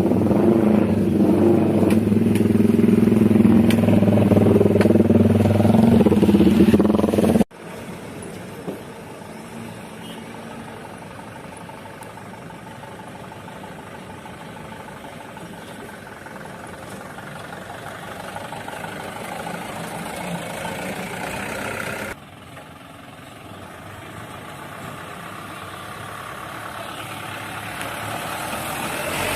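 Truck engine noise: a loud engine running for about the first seven seconds, then an abrupt drop to quieter engine and road noise, with another sudden change about two-thirds of the way through.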